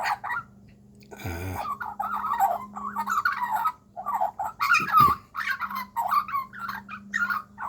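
Juvenile Australian magpie calling in a rapid, nearly unbroken string of short chattering calls that rise and fall in pitch, starting about two seconds in.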